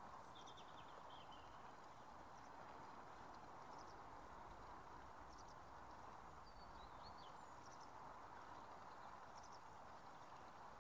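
Near silence: a faint steady background hiss, with small birds chirping briefly now and then.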